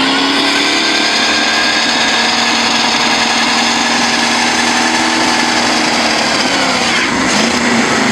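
GAZ Volga car with a bus engine held at high revs during a burnout, the tyres spinning on the spot. The engine note holds steady, then drops and wavers about seven seconds in.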